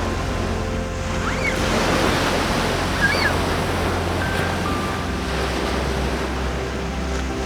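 Sea waves and surf washing steadily, under soft background music with held notes. Two short chirps come about one and a half and three seconds in.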